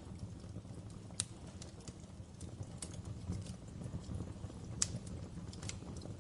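Wood fire in a fireplace crackling, with irregular sharp pops and snaps over a steady low rumble of the flames; two pops, about a second in and near five seconds, stand out as the loudest.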